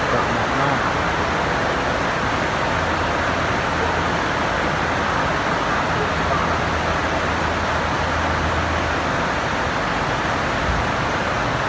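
Heavy tropical-storm rain pouring down as a steady, dense hiss. A low hum sits underneath for a few seconds midway.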